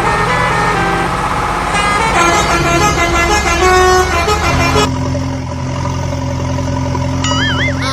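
Horn-like tones sounding at several changing pitches for about five seconds, then a steady low engine-like hum, with a short warbling whistle near the end.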